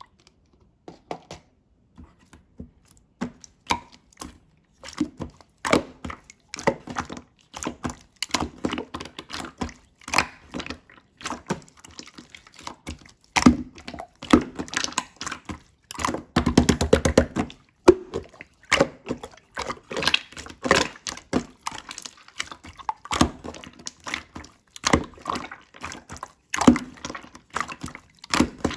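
Slime being squished and pressed by hand, making irregular wet clicks and pops, with a fast run of popping clicks a little past the middle.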